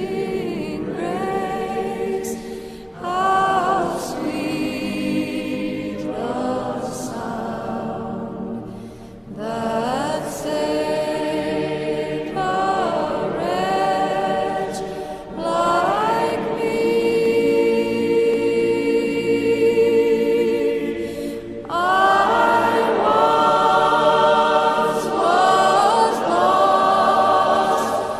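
A choir singing a slow hymn-like song, with long held notes sung together in harmony.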